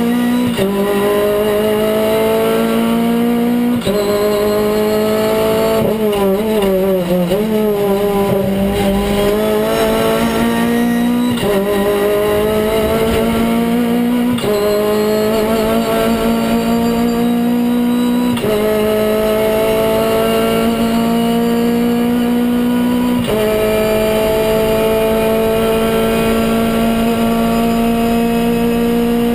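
A Renault Clio Cup race car's four-cylinder engine, heard from inside the cockpit under hard acceleration, climbing in pitch through the gears with quick upshifts. About six seconds in the pitch wavers and falls as the car brakes and shifts down for a corner. It then pulls up through the gears again, the upshifts spaced further apart in the higher gears.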